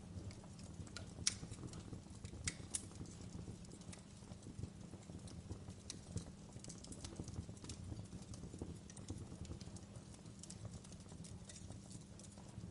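Wood fire in a fireplace crackling, with irregular sharp pops, the loudest about a second in and another pair between two and three seconds, over a low steady rumble of burning.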